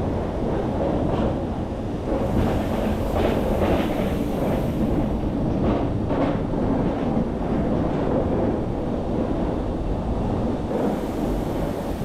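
Rochers-de-Naye cogwheel train running slowly over the rails into a station: a steady rumble of wheels on track, with a few sharper clacks about three to six seconds in.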